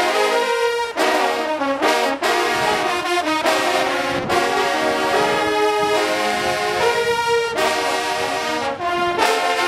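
A brass band playing a loud fanfare, trombones and trumpets sounding held chords broken by short, sharp re-attacks.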